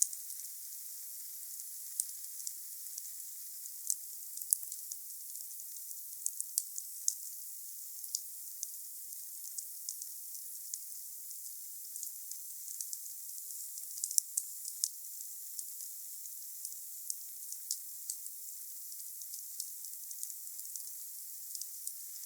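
Wood fire burning: a steady high hiss with sharp, irregular pops and snaps, several close together about six to seven seconds in and again around fourteen seconds in.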